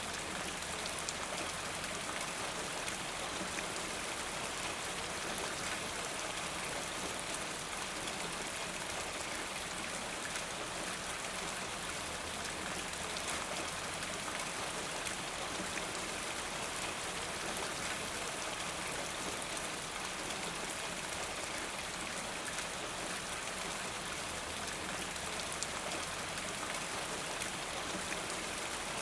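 Steady rain falling, with the fine patter of drops striking a surface.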